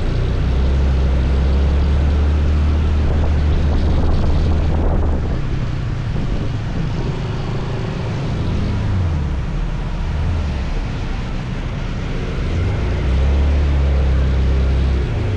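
A scooter ride heard from the rider's microphone: a steady low drone of engine and rushing wind. It eases off for several seconds in the middle and comes back strongly near the end.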